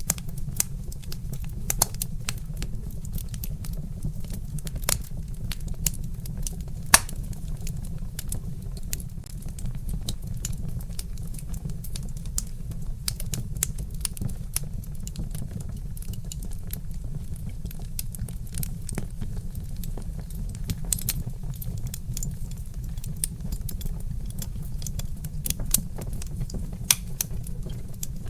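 Log fire crackling: irregular sharp pops and snaps over a steady low rumble, with one louder pop about seven seconds in.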